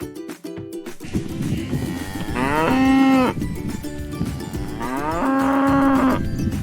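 Cow mooing twice: a shorter moo about two and a half seconds in and a longer one about five seconds in.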